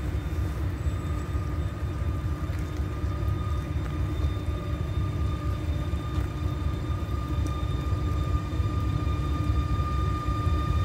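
Newag Griffin (EU160) electric locomotive approaching with its passenger train: a steady low rumble with a steady high whine over it, growing slowly louder toward the end.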